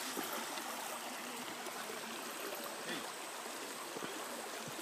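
Steady rush of flowing water, a stream or creek running.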